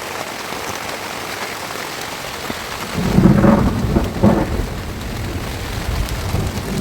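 Steady heavy rain, with thunder breaking into a loud low rumble about three seconds in and rolling on over the rain.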